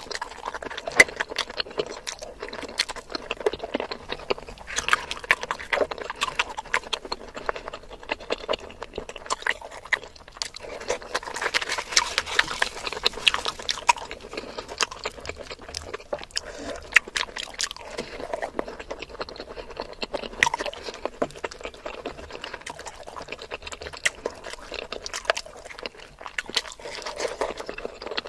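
Close-miked chewing and wet mouth smacking of a person eating fried puri with curry, with crackly tearing of the puri for a few seconds near the middle.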